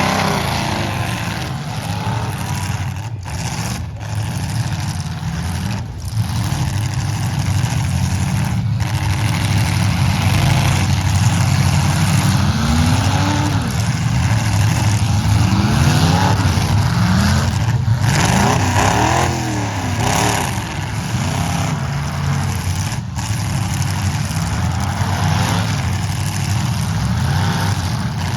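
Several demolition derby trucks' engines running together, revving up and down in overlapping rising and falling pitches.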